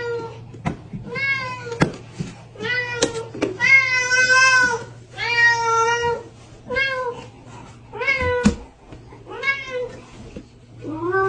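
A parrot mimicking a cat, giving about nine meows, roughly one a second. Each meow is a drawn-out call that arches up and falls away, and the longest comes about four seconds in.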